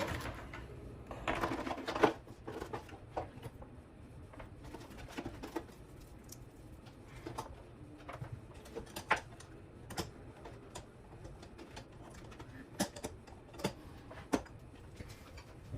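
Scattered light clicks and taps of an RC helicopter's canopy being handled and test-fitted over the frame, with one louder knock about two seconds in.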